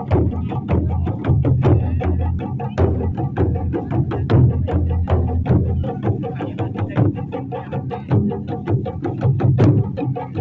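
Japanese taiko drums played by an ensemble: a fast, steady run of sharp strokes, about five or six a second, over deep booming drum tones.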